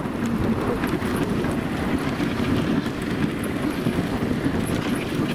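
Dog sled pulled by huskies along a packed snow trail: a steady, dense scraping rumble of the runners over the snow.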